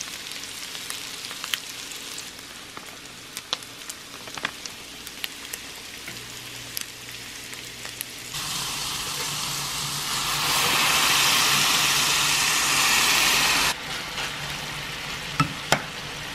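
Shredded chicken sizzling in olive oil in a skillet, a steady hiss dotted with small crackles. From about halfway in the sizzle is much louder for several seconds, then it drops back abruptly. A couple of sharp clicks come near the end as metal tongs work the pan.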